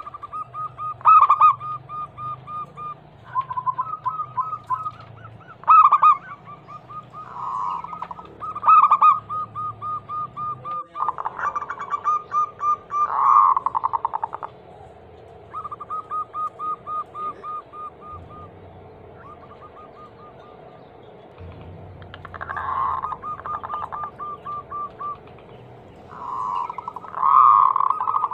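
Zebra doves cooing: repeated phrases of rapid, evenly spaced staccato coos, broken every few seconds by louder, rolling coos.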